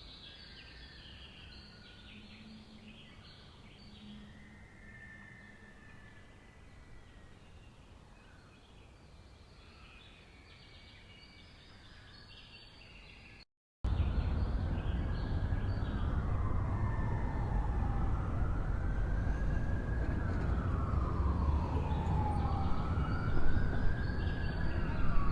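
Faint background noise for about the first half, then, after an abrupt cut, a fire truck's siren wailing in slow rising and falling sweeps about every three seconds over a low engine and road rumble.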